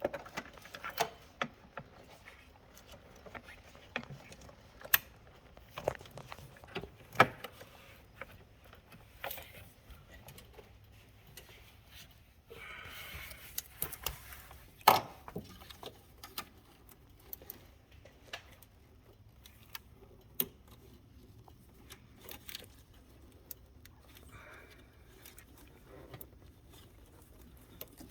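Irregular clicks, knocks and clatter of objects being handled, with a short rustling stretch about halfway through and one sharper knock just after it.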